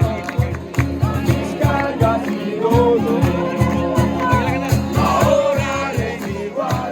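A group singing a praise song over instrumental accompaniment with a steady beat.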